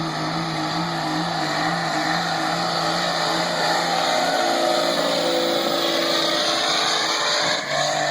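Second-generation Dodge Cummins 5.9-litre inline-six turbo-diesel held at high revs under full load while pulling the sled, its pitch creeping slowly upward, with a brief dip near the end before it picks back up.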